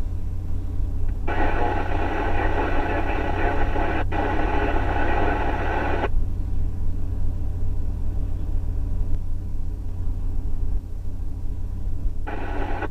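Steady low rumble of an idling road vehicle. A loud, steady sound made of several pitches together comes in about a second in and holds for roughly five seconds, then returns near the end.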